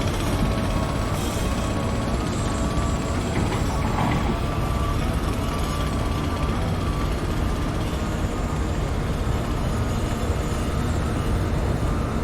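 Heavy construction machinery engines running, a steady low rumble with a thin, slightly wavering whine above it.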